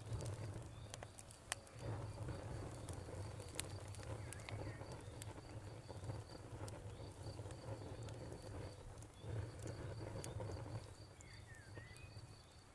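Campfire crackling with scattered sharp pops, over a cricket chirping in an even, steady rhythm. A low rumble swells and fades several times underneath.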